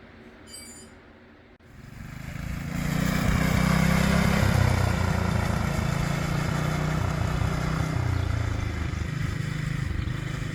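Small Honda engine on a Tote Gote trail bike running. It comes up in level about two seconds in, then runs steadily while its speed rises and falls.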